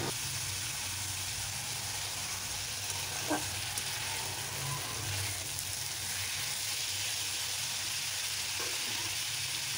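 Amaranth stalks and potato pieces sizzling steadily in spiced oil in a cast-iron karahi while a metal spatula stirs them, with a short sharp scrape of the spatula on the pan about three seconds in. A low steady hum runs underneath.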